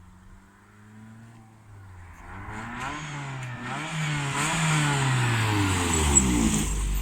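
Lada Priora's four-cylinder engine through a loud exhaust, revving. The note climbs for a couple of seconds, then falls away near the end, getting louder throughout.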